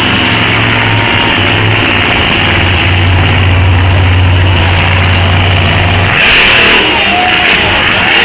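Monster truck engine running loud and steady, with a sudden louder blast across all pitches about six seconds in.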